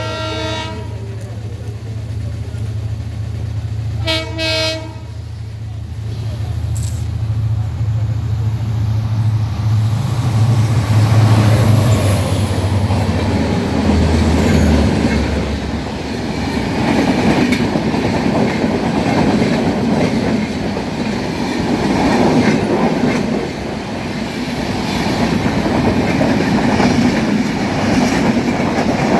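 Humsafar Express train passing close by. The locomotive's horn trails off at the start and gives one short blast about four seconds in. The locomotive's low rumble builds and passes, and from about halfway on the coaches rattle past with steady wheel clatter over the rail joints.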